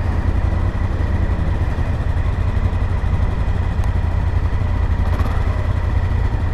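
Honda Africa Twin motorcycle's parallel-twin engine running steadily, a continuous low rumble.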